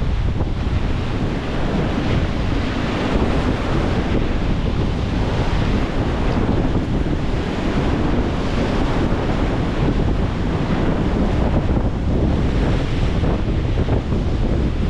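Rough sea surging and breaking in a Force 7 wind at a high spring tide, a continuous wash of surf. Heavy wind buffets the microphone throughout.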